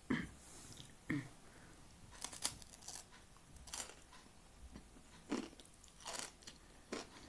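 Close-up chewing and crunching of a Swedish crispbread (knäckebröd) sandwich: crisp crunches about once a second, irregularly spaced.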